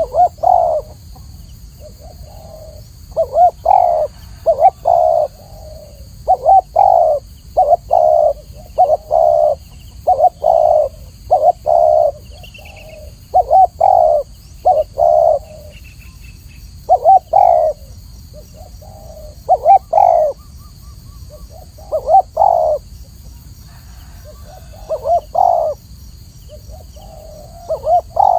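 Spotted dove cooing over and over, each phrase a quick run of two to four low coos with short pauses between phrases.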